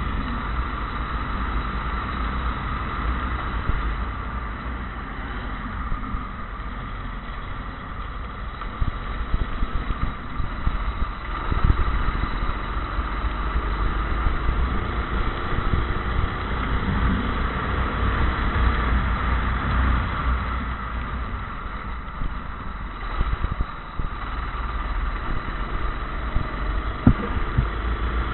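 Kart engine running through a wet race, its pitch rising and falling with the throttle, over a heavy low rumble and rushing noise. A sharp knock sounds near the end.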